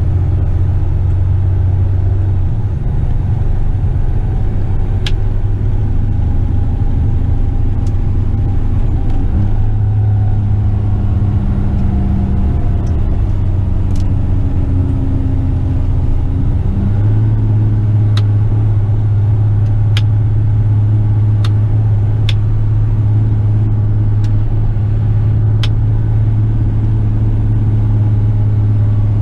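Western Star tipper truck's diesel engine heard from inside the cab as the loaded truck drives along the road, a steady low drone whose note shifts a few times before settling into an even pitch about halfway through. Sharp clicks or rattles are heard now and then.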